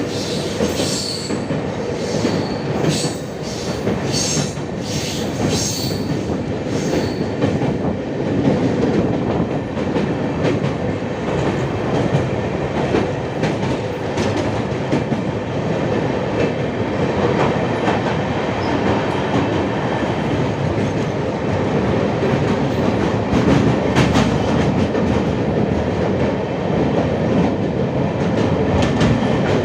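A train running across the Pamban rail bridge: a continuous rumble of wheels on the rails with clickety-clack. High wheel squeals come and go during the first several seconds.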